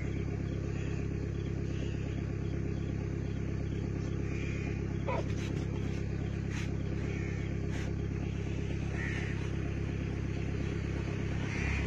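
A motor vehicle's engine running at a steady pitch, a low even hum.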